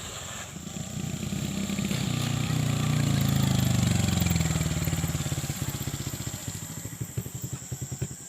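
Small motorcycle engine running. It grows louder to a peak about three to four seconds in, then falls away to a slower, uneven beat.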